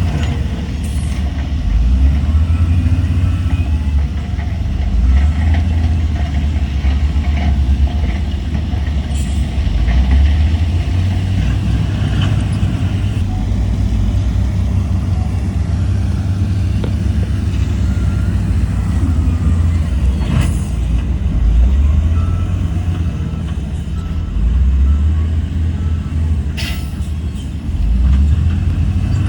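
Heavy diesel earthmoving machinery running with a steady, deep rumble that swells and eases a little with load. Two short sharp hisses or clacks stand out in the second half.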